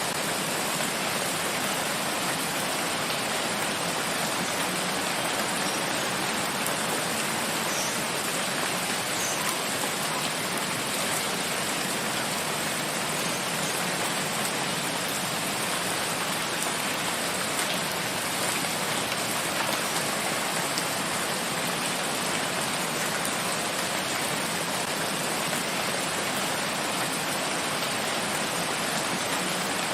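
Steady rain falling in a forest, an even hiss of rainfall with no breaks.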